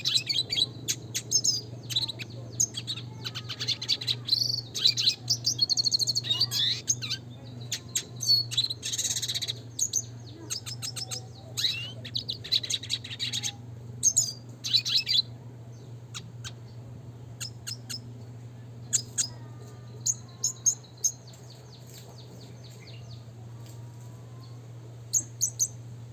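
Red siskin singing a fast twittering song of high chirps and rolling trills, dense for about the first half, then thinning to scattered short calls. A steady low hum runs underneath.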